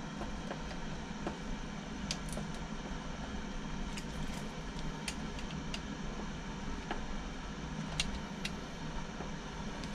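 Steady low hum with about a dozen light, sharp clicks and taps scattered through it.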